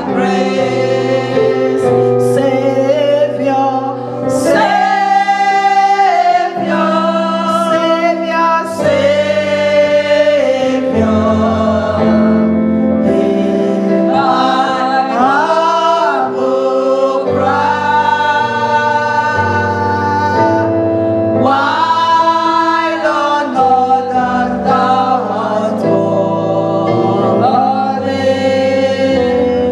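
Church choir singing a gospel worship song, voices holding and sliding between notes over a steady accompaniment.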